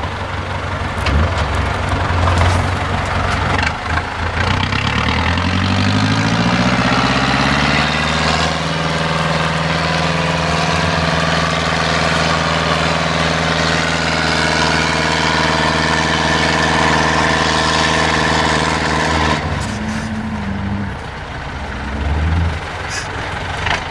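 Diesel engine of an IFA 4x4 trial truck revving up over a few seconds, held steady at high revs for about ten seconds, then dropping back to a low run near the end.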